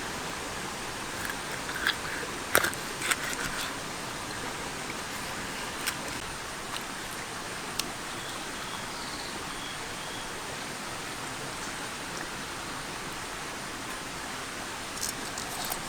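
A steady hiss with a few sharp crunching clicks of someone biting and chewing food, a cluster in the first few seconds and another near the end.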